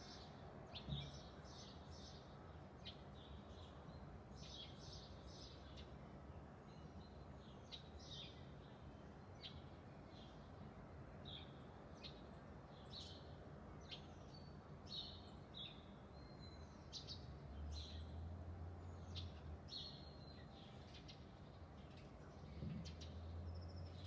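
Birds chirping and calling, many short high notes in quick succession, faint over a steady low background hum that grows stronger about two-thirds of the way through.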